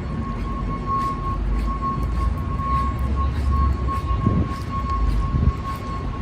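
Busy city street ambience: a low traffic rumble with a steady high-pitched tone running over it, broken by brief gaps.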